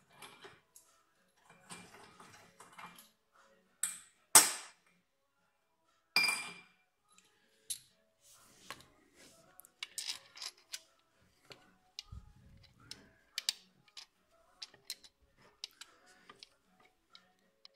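Metal hand tools and parts clinking and knocking during repair work: scattered small clicks and taps, with two loud ringing metallic clanks about four and six seconds in.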